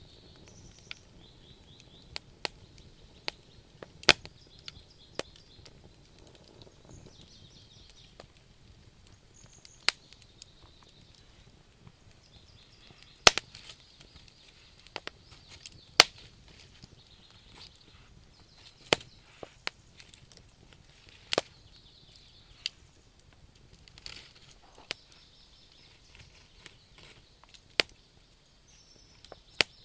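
Wood campfire crackling: irregular sharp pops and snaps from the burning logs over a faint hiss, a handful of them much louder than the rest. Faint high chirps sound now and then in the background.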